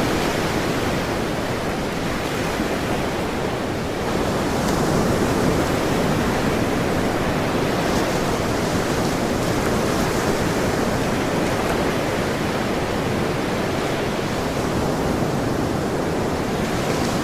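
Ocean surf washing on a shore, a steady hiss of waves that swells gently and eases off.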